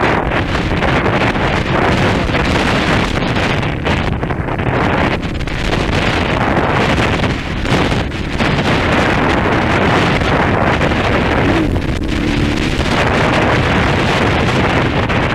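Wind buffeting the microphone while riding a 230 cc trail motorcycle, its engine running underneath the wind noise.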